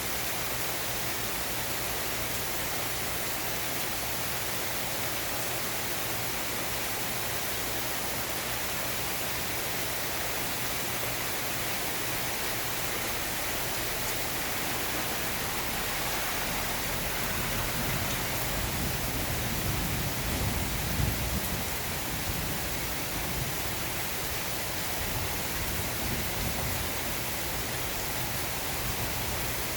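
Steady rain falling, an even hiss throughout. A low rumble swells and fades away about twenty seconds in.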